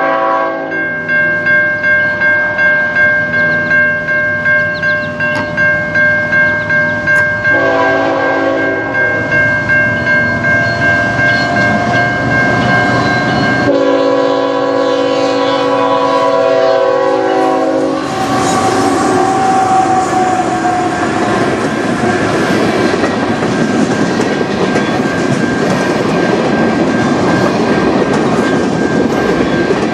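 Level-crossing warning bell ringing steadily as a CN freight train approaches, its locomotive horn sounding a blast that ends about a second in, a shorter one around eight seconds, and a long one from about fourteen to eighteen seconds. Then the locomotives and freight cars pass close by: a loud rumble with the clickety-clack of wheels over the rails, the bell still ringing.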